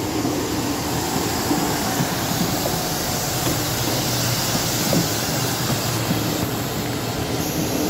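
Class 158 diesel multiple unit running steadily at the station, a continuous low drone.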